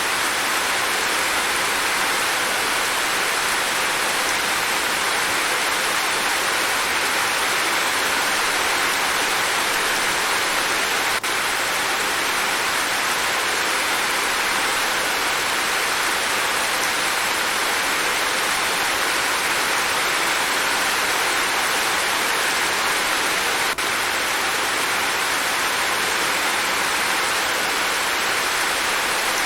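Steady rain falling, an even, unbroken hiss with no separate drops, thunder or other sounds standing out.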